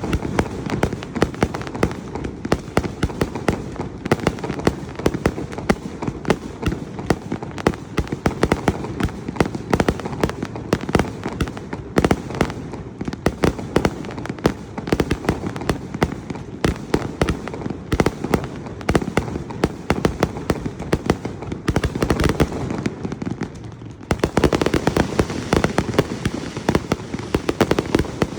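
Fireworks display: a dense, continuous barrage of bangs and crackles. It thins out briefly about three-quarters of the way through, then builds again.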